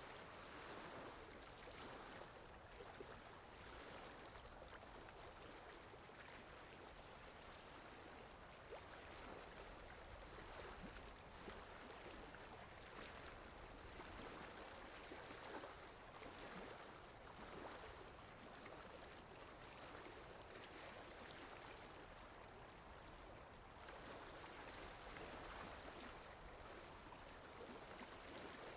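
Steady rain, a faint even hiss of falling drops that swells and eases slightly every few seconds.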